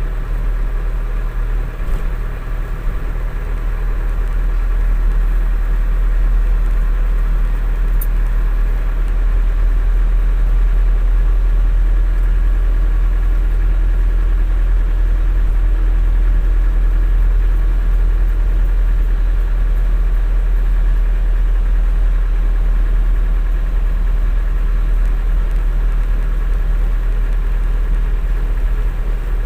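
Container truck's diesel engine idling steadily with a deep, even rumble.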